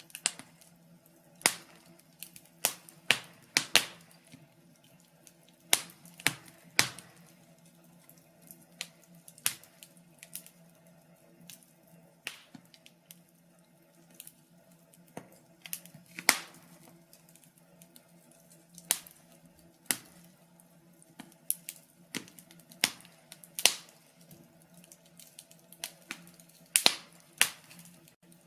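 Wood fire in a fireplace crackling, with sharp, irregular pops and snaps over a faint steady hum.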